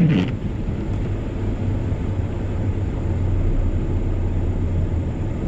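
A vehicle driving, with a steady low engine and road hum.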